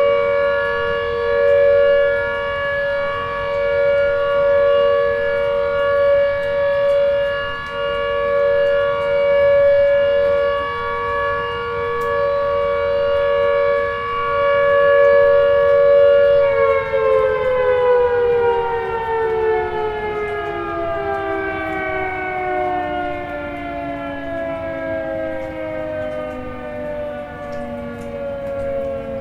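Outdoor tornado warning siren sounding a steady two-note chord, swelling and fading in loudness, then from a little past halfway winding down, its pitch falling steadily.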